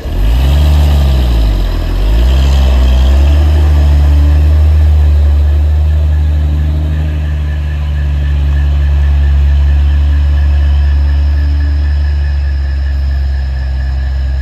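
Heavy vehicle's engine revved up and back down twice in the first few seconds, then running steadily at a low pitch.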